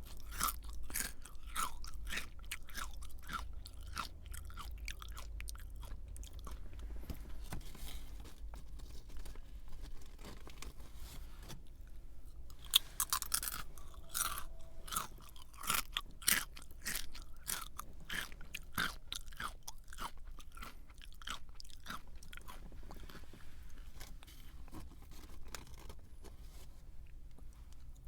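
A person chewing a crunchy snack close to the microphone: a long run of crisp crunches and crackles, coming in clusters of louder bites, over a faint steady low hum.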